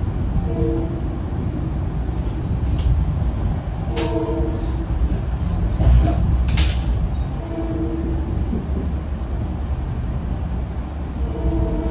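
Metro-North commuter train running on the rails: a steady low rumble with a few sharp knocks from the running gear. Four short horn blasts, each a chord of several notes, come at intervals of about three to four seconds.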